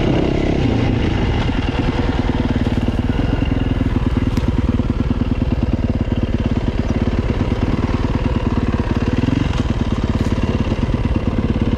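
Dirt bike engine running at a steady speed, with a rapid, even firing beat and a held pitch that shifts slightly about nine and a half seconds in.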